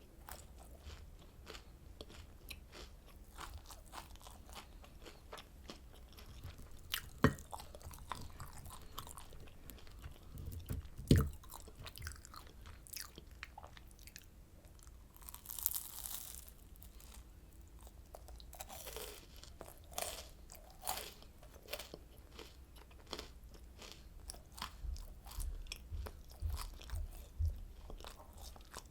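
Close-miked crunching and chewing of oranda, a hard, crispy candy of puffed grain bound with syrup, as many small crackles. Two loud, sharp bites come about seven and eleven seconds in.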